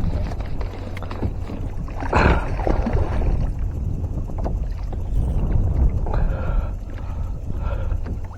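A hooked bass being fought at the kayak, with a splash about two seconds in over a steady low rumble of wind and water, and scattered small clicks.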